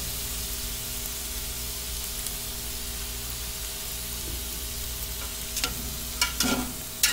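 Chopped onions and pieces of goat fat sizzling in hot oil in a large metal pot, a steady hiss. From about five and a half seconds in, a fork scrapes and clinks against the pot as the onions are stirred.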